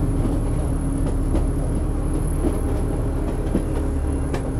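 Narrow-gauge passenger train running, heard from an open coach window: a steady low rumble from the moving coaches, with scattered light clicks and one sharper click near the end.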